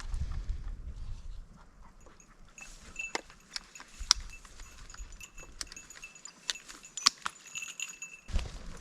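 Light metallic jingling that comes and goes from about two and a half seconds in, among scattered sharp clicks and snaps.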